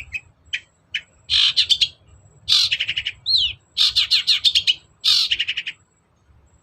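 Long-tailed shrike (cendet) singing loudly: a few short notes, then bursts of rapid, rasping chattering phrases with a short whistled note among them, stopping about a second before the end.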